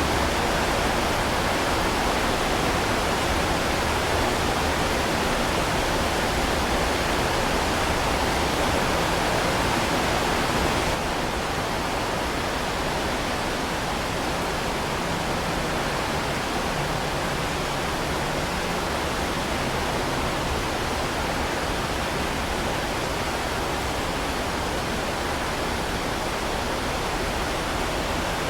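Heavy rain falling steadily, an even hiss with no separate drops standing out. About eleven seconds in, it abruptly becomes a little quieter and duller.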